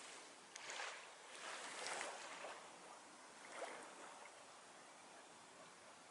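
Faint small waves washing on a sandy beach, three soft swells of surf over a steady background hiss.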